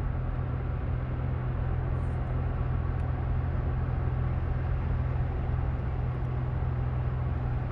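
Steady road and engine noise heard from inside a car's cabin while cruising at about 100 km/h, a constant low hum under a rushing haze of tyre and wind noise.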